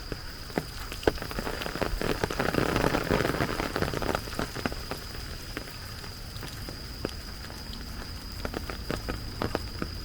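Rain falling, with many sharp individual drop hits close by and a louder, denser rush of rain noise about two to four seconds in. A thin steady high tone runs underneath.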